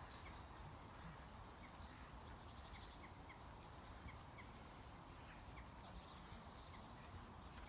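Near silence with faint bird chirps, one short call repeated about twice a second.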